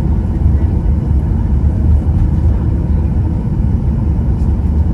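Steady low rumble of a Boeing 737-800 heard inside the passenger cabin as the jet rolls on the ground after touchdown.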